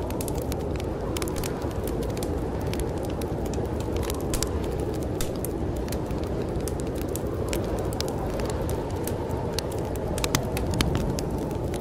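Wood fire crackling in a fireplace, with frequent irregular sharp pops, over a steady low rush of snowstorm wind.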